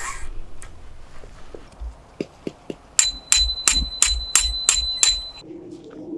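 Metal struck seven times in quick, even succession, each strike ringing with a steady high tone that carries through the series, after a few softer knocks about two seconds in.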